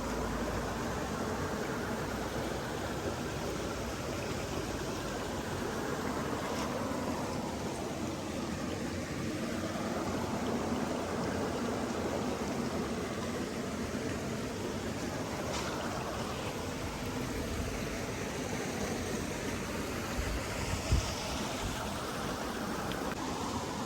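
Steady rushing of running water, with one brief low thump near the end.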